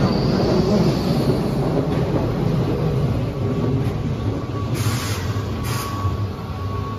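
Keihan electric commuter train running slowly along a station platform: steady rumble of wheels and running gear that slowly fades. About two-thirds of the way in, a thin steady high squeal from the wheels or brakes sets in.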